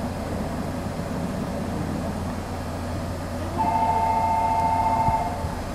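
Train running with a steady low rumble; about three and a half seconds in, a two-note train horn sounds steadily for under two seconds.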